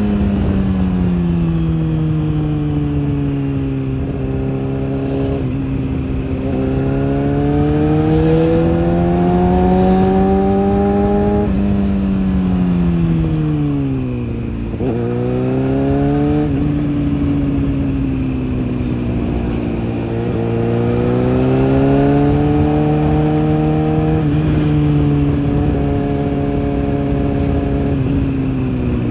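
Kawasaki ZX-6R inline-four engine and exhaust running at moderate revs. Its pitch rises and falls gently over several seconds, sinks sharply about halfway through and then climbs back.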